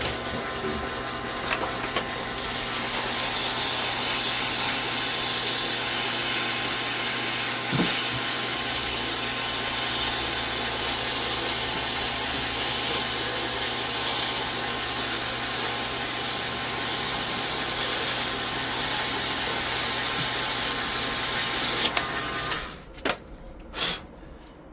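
An electric tool spinning a Ford Thunderbird starter part while sandpaper is held against it to clean off built-up grime. It runs steadily with a constant hum and a rasping hiss, then cuts off suddenly near the end.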